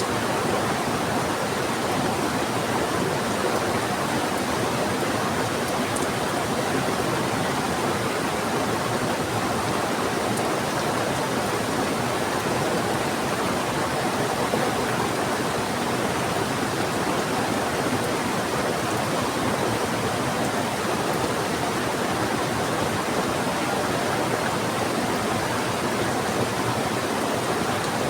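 Heavy rain together with a rushing river, making a steady, even wash of water noise that does not change.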